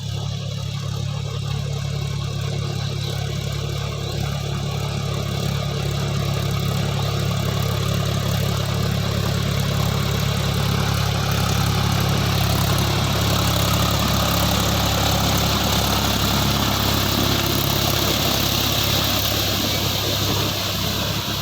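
Heavy diesel engine of a backhoe loader or tractor running steadily, growing louder and harsher from about six seconds in as it is worked harder.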